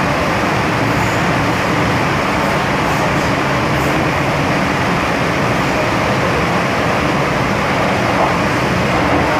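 MTR Tsuen Wan Line M-Train (set A247/A232) running between stations: a steady, loud rumble of wheels on rail, with a faint steady low hum.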